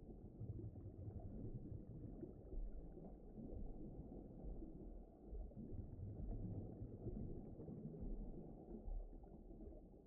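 Low, muffled rumbling ambience that swells and ebbs, with nothing heard above the bass and low mids: an underwater deep-ocean soundscape.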